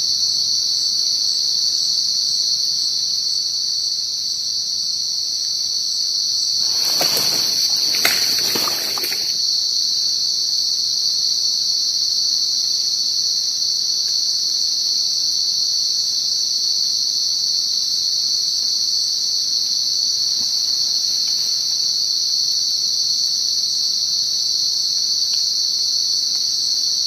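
Night insects droning in a steady, high-pitched chorus. About seven seconds in, a short burst of broad noise lasting about two seconds rises over it.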